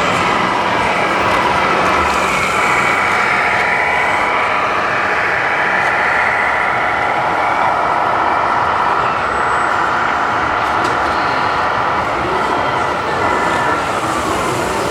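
Small electric motors and gearing of 1:14-scale RC model trucks and construction machines whining steadily, their pitch sliding up and down as they work, over a dense background of mechanical noise.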